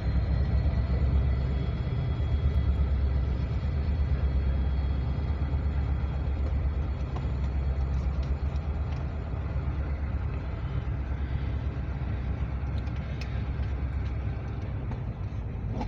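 Freight train cars rolling past, a steady low rumble of steel wheels on the rails that eases slowly in loudness.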